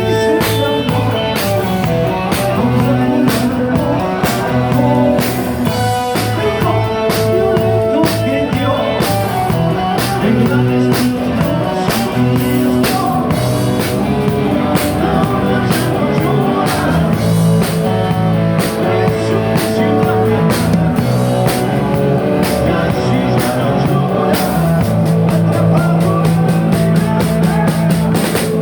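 Rock band playing live: drum kit keeping a steady beat under held electric guitar notes.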